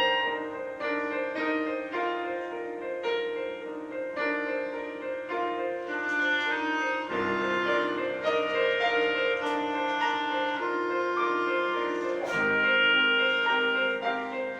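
Instrumental duet: piano chords under a melody instrument playing long held notes, in a slow, changing chord progression.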